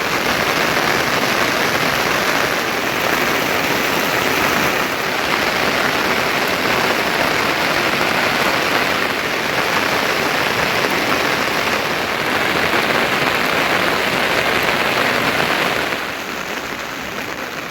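Heavy monsoon rain falling in a steady, dense hiss, easing a little near the end.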